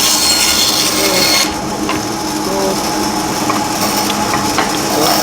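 Woodturning: a tool scraping and cutting into wood, a steady rough rasping. About a second and a half in, the sound changes suddenly and its high hiss drops away.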